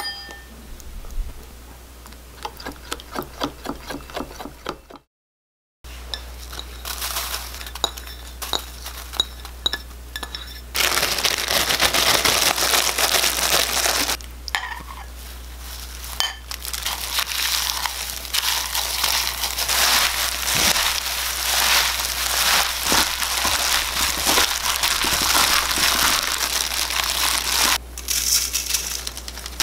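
Toasted dried laver sheets being crushed by hand inside a plastic bag: dense crinkling and crackling of brittle seaweed and plastic. The first few seconds hold lighter scattered clicks, and the crushing grows loud and continuous about eleven seconds in.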